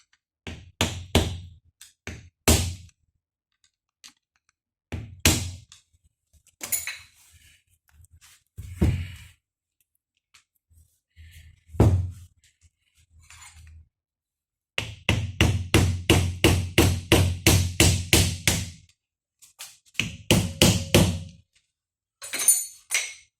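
Hammer blows on a stuck part of a GAZelle steering gearbox, driving it to free it. Scattered single knocks come first, then a quick run of about four blows a second for about four seconds, then a shorter run.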